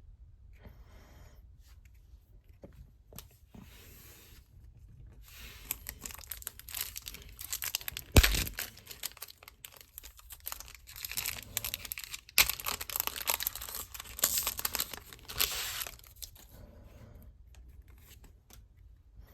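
Plastic packaging being torn open and crinkled by hand, with a sharp knock about eight seconds in.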